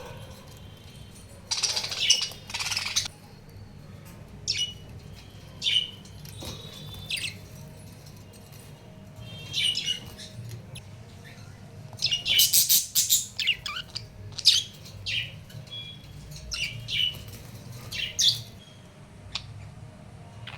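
Pet budgerigars chirping and chattering in short, scattered calls, busiest about two seconds in and again around twelve to thirteen seconds in, over a steady low hum.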